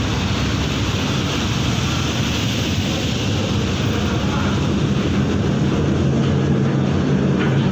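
A ferry's engines droning steadily with a low hum, under an even rushing noise.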